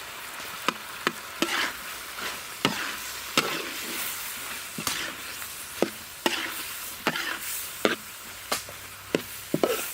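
Fried rice being stir-fried in a pan: a steady sizzle, with a spatula knocking and scraping against the pan at irregular moments as the rice is tossed with the freshly added green onion, chili and salt.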